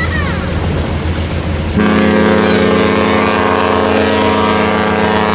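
Cruise ship horn sounding a long, steady blast that starts about two seconds in, over wind and harbour noise.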